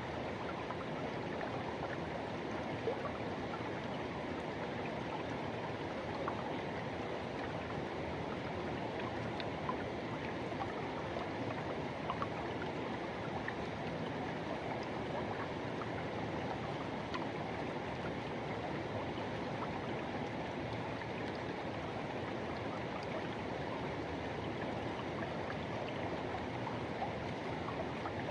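River water rushing and gurgling over rocks, a steady even noise with a few small splashes.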